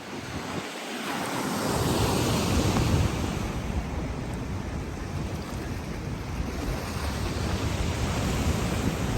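Black Sea surf washing onto the shore, a wave swelling about two seconds in and then slowly ebbing, with wind buffeting the microphone.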